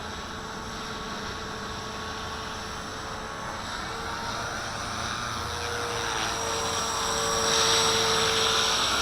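Walkera V450D01 electric RC helicopter hovering, its motor and rotor giving a steady whine over a rushing noise. The sound grows louder over the last few seconds.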